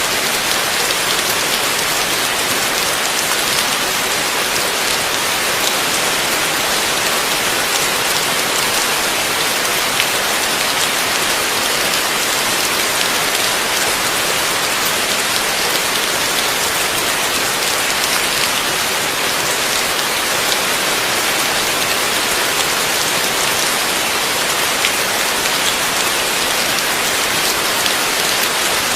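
Heavy rain falling steadily, a dense even hiss with fine scattered drop patter.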